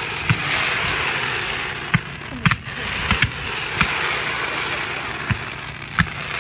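Fireworks going off: about eight sharp bangs and pops at irregular intervals, over a steady rush of background noise.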